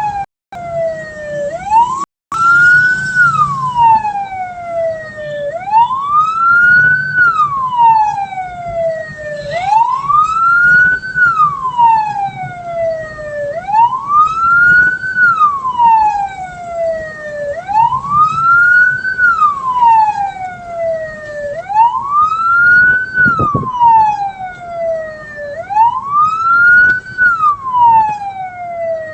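Vehicle siren wailing: each cycle climbs quickly, then falls away more slowly, repeating about every four seconds.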